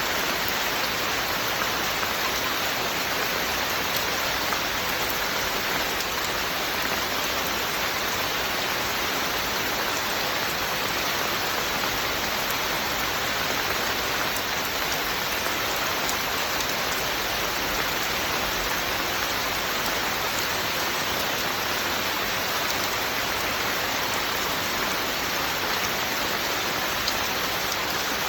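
Steady rain falling, an even rushing hiss with faint scattered drop ticks and no change in strength.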